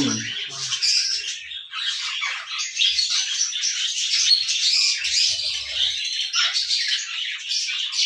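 Birds chirping and squawking: a dense, continuous chatter of high-pitched calls.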